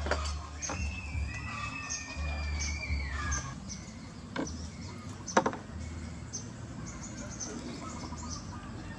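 Small birds chirping: many short, high chirps throughout, with a long, slightly wavering high call in the first few seconds. There is a sharp click about five and a half seconds in.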